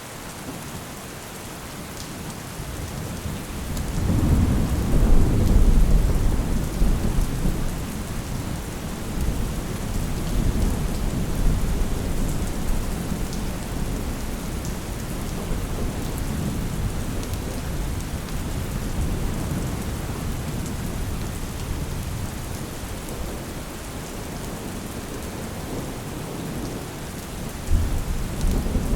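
Steady rain with a long roll of thunder that builds about four seconds in, peaks, and slowly dies away under the rain; another rumble of thunder begins near the end.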